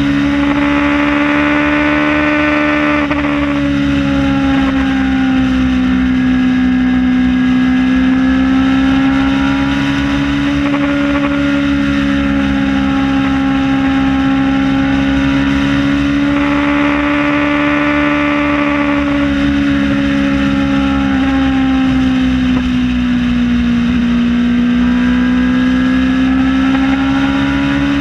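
Kawasaki ZX-6R sport bike's inline-four engine running at a steady cruising speed, its pitch drifting slightly up and down, over a constant rushing noise.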